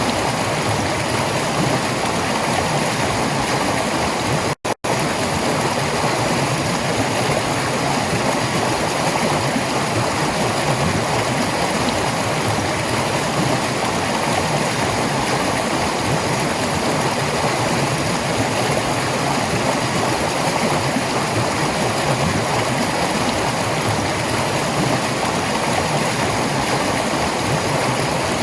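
Stream water running steadily over rocks, an even rush with no break except two brief dropouts to silence about four and a half seconds in.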